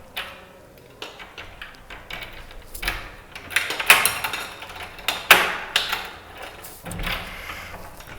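A handful of irregular sharp knocks and clicks over a quiet background, the loudest about four seconds in.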